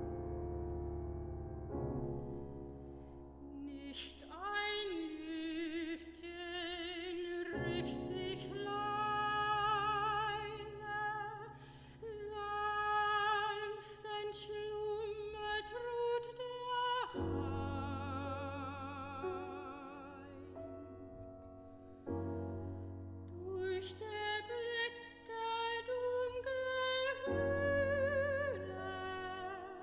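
Classical soprano singing with strong vibrato over piano accompaniment; the piano plays alone for about the first four seconds before the voice comes in.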